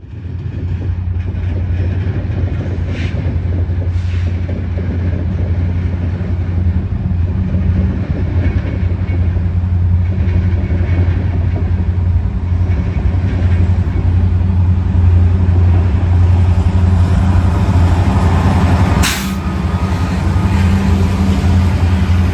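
Diesel train running with a steady low engine drone, with two light knocks about three and four seconds in and a sharper knock near the end.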